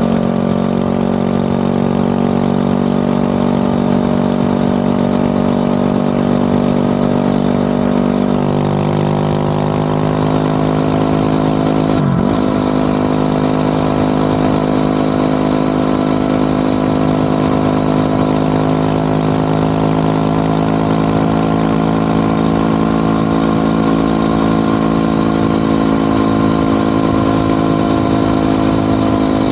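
Motorcycle engine running at a steady speed while riding, with a brief dip and recovery in engine pitch about twelve seconds in.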